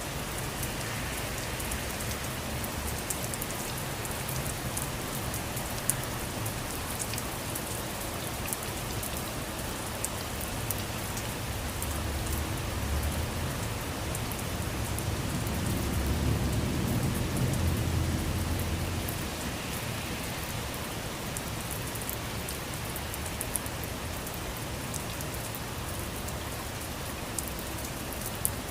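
Steady rain falling on a surface, with individual drops ticking through the hiss. A low rumble swells and fades again in the middle.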